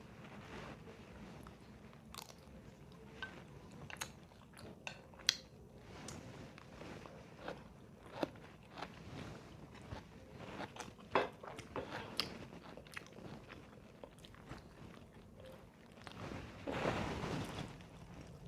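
Close-up sound of a person biting and chewing crunchy food, with a scatter of sharp crunches and clicks. A louder rush of noise comes near the end.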